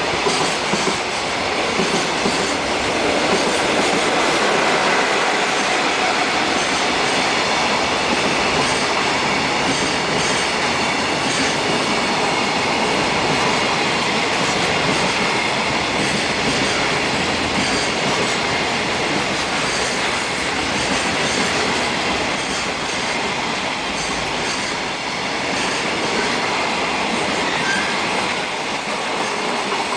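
Container freight wagons rolling past: steady loud wheel-on-rail noise with rail-joint clicks.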